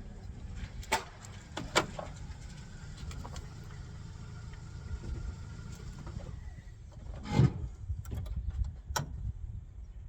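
Sharp metal clicks and clinks of small 1/4-inch sockets and a wrench being tried on the ignition control module's screws on a Ford 302 distributor, with the loudest clink a little past the middle. The clinks sit over a low steady rumble.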